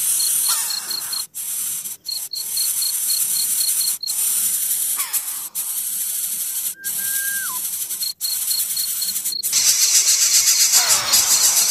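A steady, high-pitched insect chorus with a rapidly pulsing high note that comes and goes. Over it come a few short downward-gliding whistles and, about seven seconds in, one held whistle that drops in pitch at its end.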